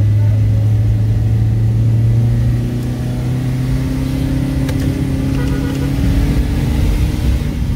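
Nissan Serena C24 minivan's engine heard from inside the cabin, accelerating to overtake a pickup truck. A steady low drone gives way about two and a half seconds in to a higher engine note that climbs gently.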